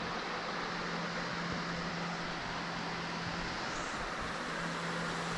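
Waterfall cascading, a steady even rush of falling water.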